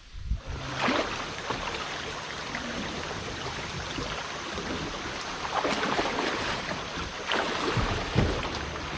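Creek water rushing around a kayak: a steady, dense rushing sound that starts abruptly just after the beginning and swells in a few louder surges.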